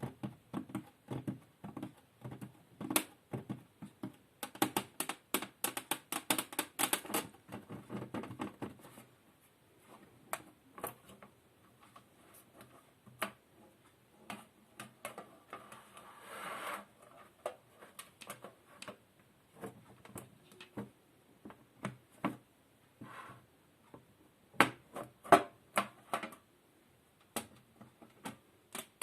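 Rapid tapping and clicking close to the microphone, quick and dense for the first several seconds, then sparser and irregular, with a brief scratchy rustle a little past halfway.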